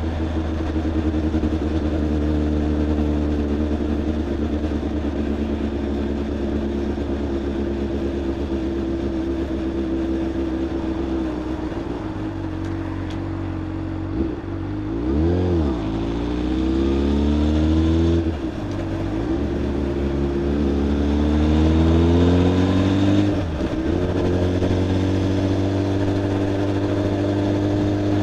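Honda Hornet 600's inline-four engine heard from the rider's seat, running at steady revs, then about halfway through the revs dip and pick up again. It then climbs in pitch and drops abruptly twice, about five seconds apart, as it accelerates and shifts up, before settling back to a steady cruise.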